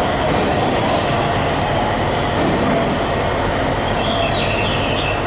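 Train running along the platform: a steady, loud rumble of wheels and running gear on the rails, with a few short, high wheel squeals about four seconds in.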